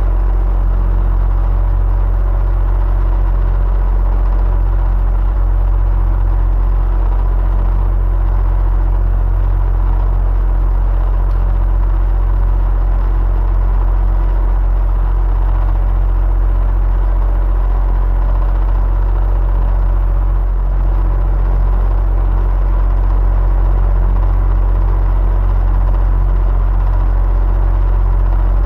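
Electric fan running steadily: a constant deep rumble with a faint steady hum over it, unchanging throughout.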